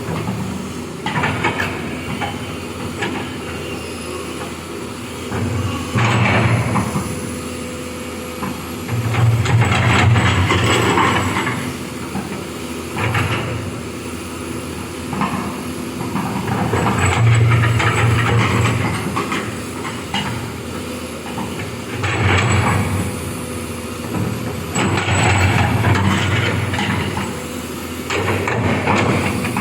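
Backhoe excavator working: the diesel engine runs continuously and rises under load in repeated swells every few seconds as the machine digs. Metallic squeaks and clanks from the arm and bucket run through it.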